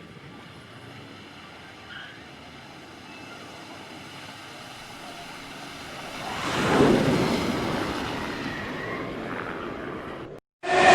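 A vehicle passing: a rush of noise swells about six seconds in and slowly fades, over a faint steady hum. It cuts off abruptly near the end.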